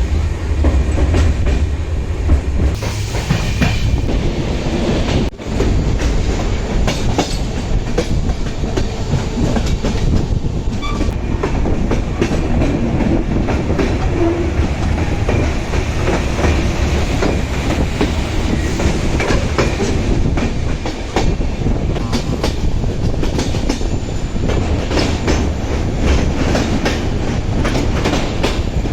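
Passenger train running along the track: a steady low rumble with the wheels clacking over the rail joints.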